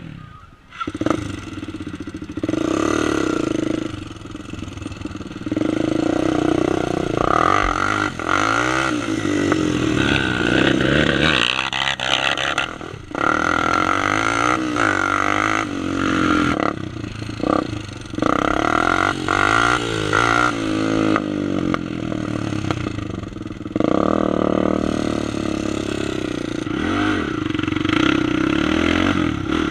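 Single-cylinder four-stroke sport quad engine running hard, revving up and down with brief throttle lifts every few seconds as it accelerates.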